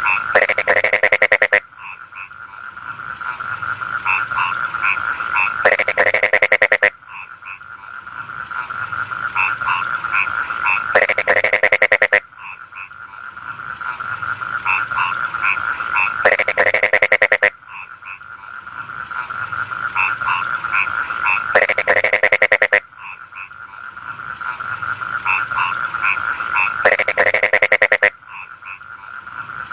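A chorus of rice-field frogs calling. About every five seconds a loud, fast rattling croak lasts a second or so; in between, shorter calls repeat and build over a steady high-pitched drone.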